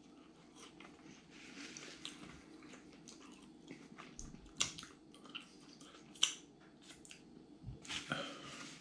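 Quiet chewing of a mouthful of steak pie, with small wet mouth clicks and crackles as pieces of the pastry crust are pulled apart by hand; a few sharper clicks stand out.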